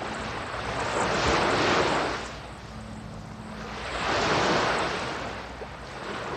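Ocean surf sound effect on a surf-rock record's intro: two waves swell up and wash out, about three seconds apart.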